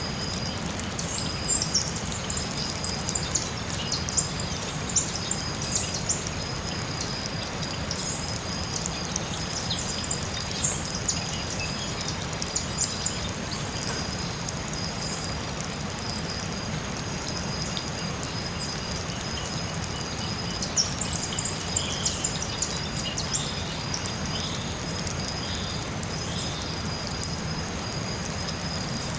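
Forest ambience: steady high-pitched insect tones hold throughout. Scattered short chirps and calls come over them, along with a steady low rushing noise like running water or rain.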